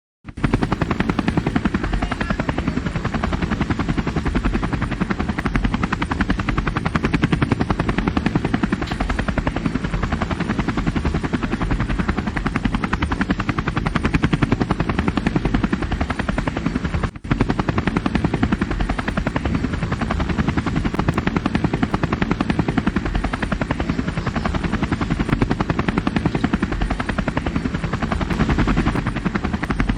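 Helicopter rotor blades chopping in a rapid, steady beat, with the turbine engine running, loud throughout. The sound breaks off for an instant about halfway through.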